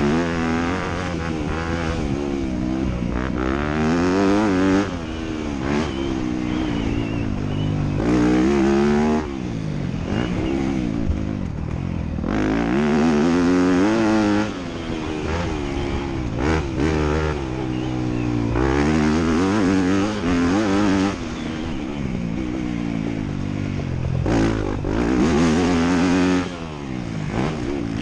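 Motocross bike engine revving hard under race throttle, its pitch climbing over a few seconds and then dropping as the throttle is chopped or the rider shifts, again and again, with brief lulls between runs.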